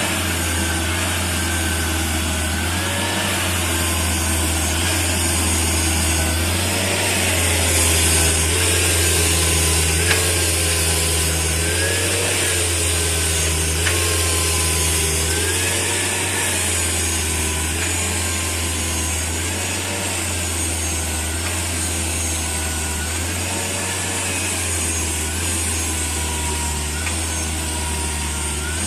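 Gasoline/LPG dual-fuel forklift truck running steadily, a constant low engine hum with a whining tone that rises and falls again and again.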